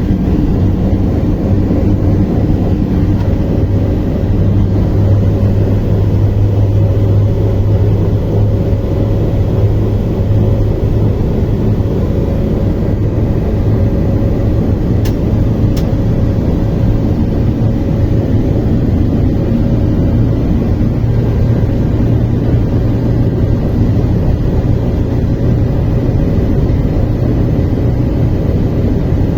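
Steady low rumble of a moving train, with a constant hum.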